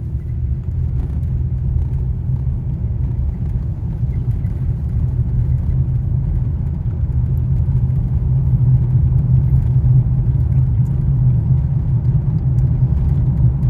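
A car driving on the road: a steady low rumble of tyres and engine, growing a little louder partway through.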